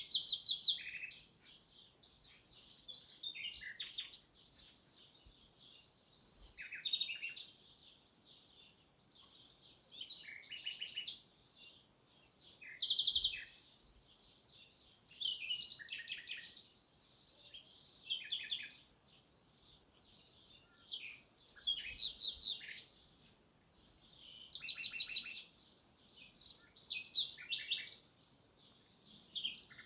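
Songbird birdsong: short, high, chirpy phrases of quick notes repeating every two to three seconds.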